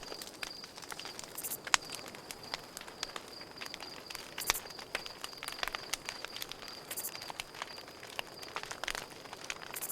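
Campfire crackling with irregular sharp pops, one louder snap about two seconds in, over a cricket chirping steadily in a high, pulsing trill.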